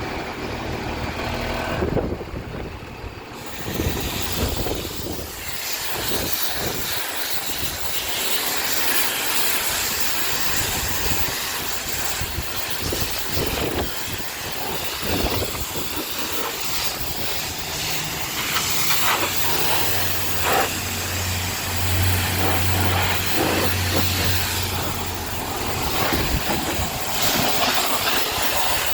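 Water spraying from a hose onto a fire truck during a wash, a steady loud hiss of spray on the body. A low hum comes in for a while in the second half.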